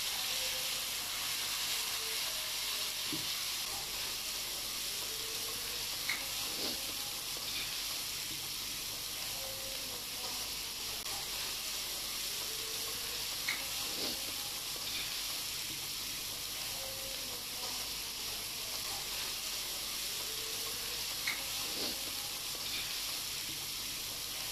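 Sliced onions fried light golden brown and freshly added ginger-garlic paste sizzling steadily in hot oil in a non-stick wok, sautéing to cook off the raw smell of the paste. A plastic spatula stirs them, with a few short scrapes and taps against the pan.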